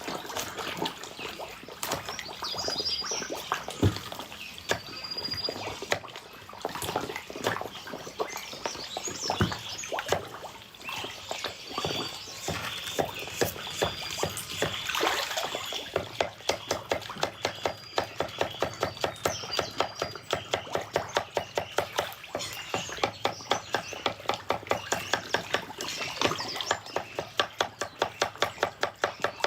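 Water splashing and slurping as a crowd of grass carp and black carp feed at the surface on thrown pumpkin. From about halfway through, a fast regular run of sharp pops comes in, about three a second.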